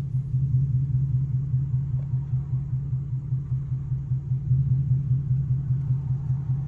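Ford Mustang GT's 5.0 V8 running at low, steady revs, a low, even drone heard from inside the cabin while the car cruises slowly.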